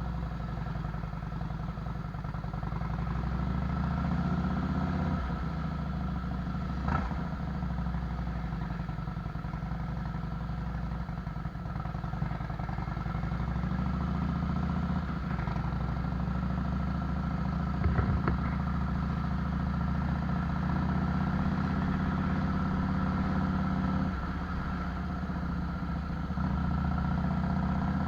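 Harley-Davidson Fat Boy's Twin Cam V-twin running through a Vance & Hines fishtail exhaust, a steady low rumble that swells slightly a few times, with a brief sharp knock about two-thirds of the way through.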